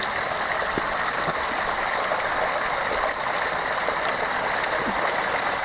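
Water pouring and trickling down the rock face of a railway cutting, a steady rushing sound.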